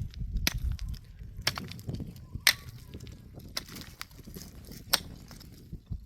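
A hand tool striking over and over at a steady pace of about one sharp strike a second, with low rumbling handling noise between the strikes.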